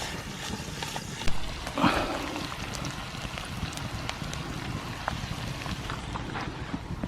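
Campfire crackling with scattered sharp snaps under a pot of stew simmering, with two louder knocks about a second and two seconds in.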